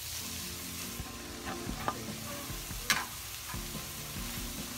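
Chopped vegetables sizzling in a hot pan of butter and oil as shredded cabbage is tipped in on top of the carrots, onions and beans. A few sharp clicks come through the steady sizzle, the loudest about three seconds in.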